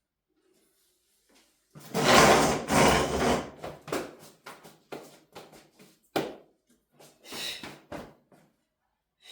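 A sudden loud burst of rustling and clattering, then a string of irregular light knocks and clicks as objects are handled.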